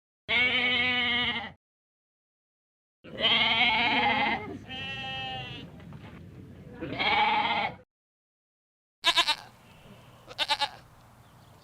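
An animal bleating in three loud, quavering calls, the middle one trailing off into a quieter wavering call. Near the end come two short bursts of rapid pulsed sound.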